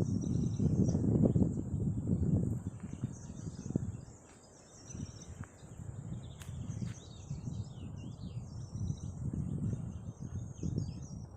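Small birds chirping in short high calls and quick glides, over a steady high insect buzz. Beneath them an uneven low rumble fades around four seconds in and builds again.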